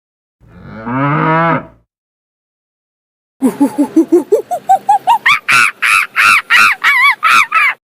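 A cow moos once, one call lasting about a second and a half. After a short pause a rapid run of short honking calls starts, several a second and climbing in pitch, typical of geese honking.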